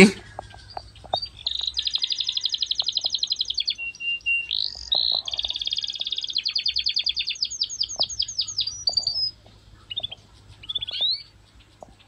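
A songbird singing: long fast trills and runs of rapidly repeated high notes, breaking into scattered short calls for the last few seconds, over a faint low hum.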